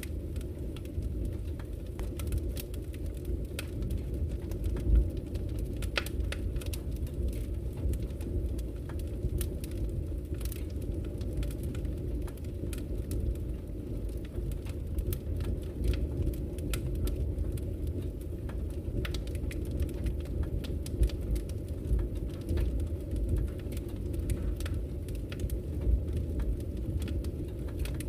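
Wood fire burning in a fireplace: a steady low rumble of the flames with irregular sharp crackles and pops from the burning logs, one louder pop about five seconds in.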